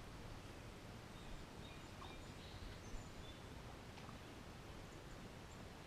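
Faint open-air ambience: a steady low background hiss, with a few faint, short, high bird chirps about two to three seconds in and a couple of soft ticks.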